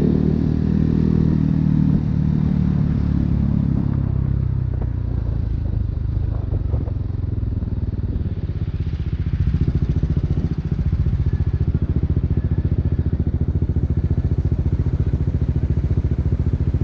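BMW G 310 R's single-cylinder engine through an Akrapovic racing exhaust, its revs falling over the first few seconds as the bike slows. From about ten seconds in it idles with a steady, even pulse.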